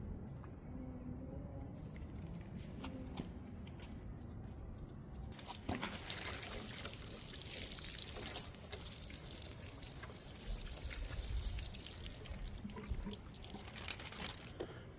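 Water pouring in a steady stream, starting about six seconds in and running until just before the end.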